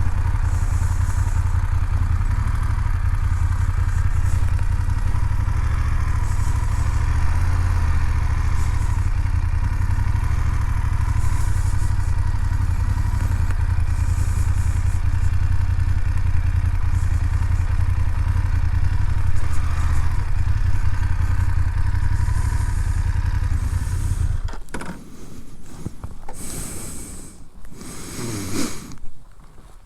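BMW F 750 GS parallel-twin engine running steadily at low speed with a deep rumble. It cuts off abruptly about 24 seconds in, followed by a few short rustling and scraping sounds.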